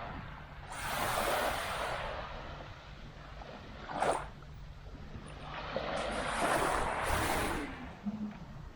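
Small waves breaking and washing up on the shore: two broad swells of surf about five seconds apart, with a brief sharper burst of water about four seconds in, over a steady low rumble.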